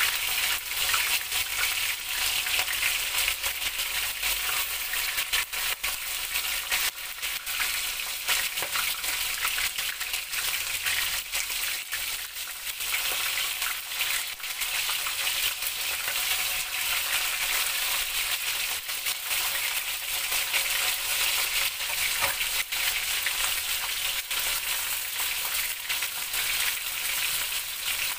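Flour-coated chicken hearts frying in hot oil: a steady crackling sizzle with many small pops.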